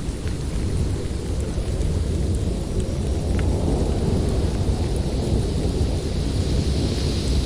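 Snowstorm wind in a forest: a steady deep rumble with a hiss on top that swells again near the end.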